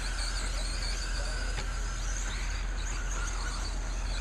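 Several electric RC stadium trucks racing at once: a steady hiss with many overlapping high, wavering motor whines rising and falling as the trucks accelerate and brake, over a constant low hum.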